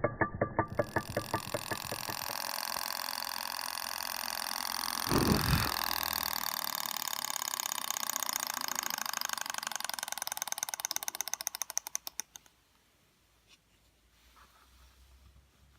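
Small Stirling engine running with a rapid, even ticking that quickens and then stops suddenly about three quarters of the way through. There is a single low thud about a third of the way in.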